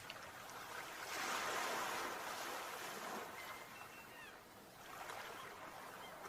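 Sea waves breaking on the shore: one wave swells up about a second in and washes back, fading away. Short, thin bird calls come in during the second half.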